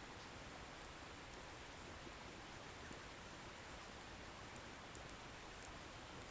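Wood fire burning quietly: a steady soft hiss with a few faint, small crackles of the firewood.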